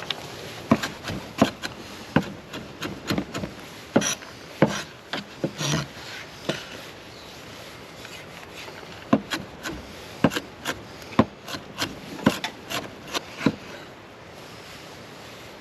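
Irregular sharp wooden knocks and clicks with some scraping, in two flurries, over a steady background hiss.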